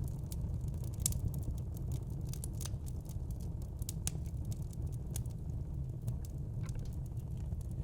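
Wood burning in a fireplace, crackling with frequent sharp, irregular pops over a steady low rumble of the flames.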